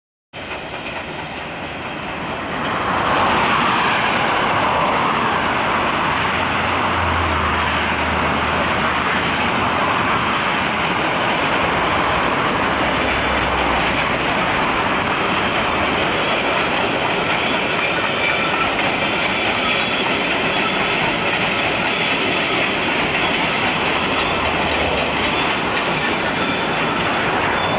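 Train running on the rails: a steady, loud rumble of wheels on track with clickety-clack. It builds up over the first three seconds, then holds steady.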